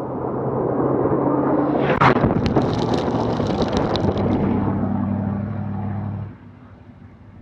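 Scania Dakar rally truck's diesel engine driving past at speed, growing louder as it approaches, with a spatter of sharp clicks, like gravel, as it passes. Its engine note then drops in pitch as it goes away, and the sound falls off suddenly near the end.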